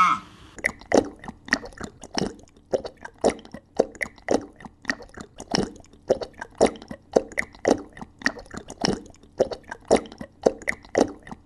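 Cow eating grass fodder, a steady run of crisp crunching chews, about two or three a second.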